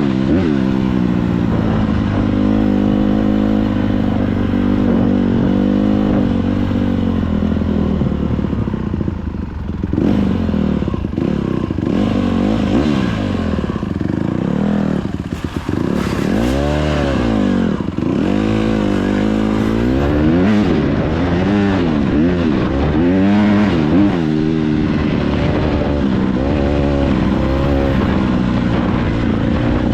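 A dirt bike engine running as the bike is ridden. Its pitch holds fairly steady at first, then from about ten seconds in rises and falls again and again as the throttle is opened and closed.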